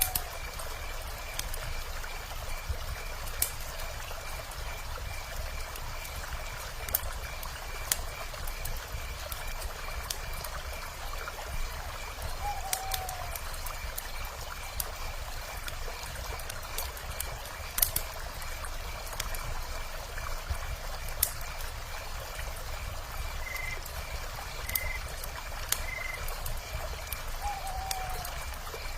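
Wood fire crackling with sharp, scattered pops over the steady rush of a river. A fast-pulsing high chirp runs throughout, and an owl gives a short, slightly falling call twice, about halfway and near the end.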